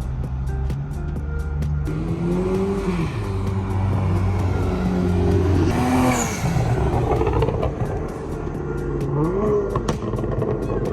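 Car engine revving hard, its pitch rising and falling several times, with a rushing noise swelling and fading near the middle. Music with a steady beat plays underneath.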